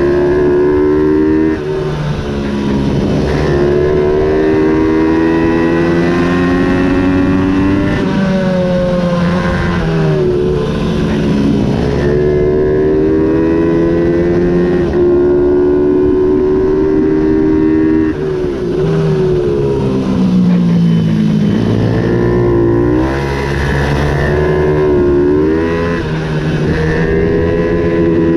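Ohvale 110 minibike's single-cylinder four-stroke engine racing, revving high on the straights and dropping in pitch for each corner. The pitch climbs and falls every few seconds.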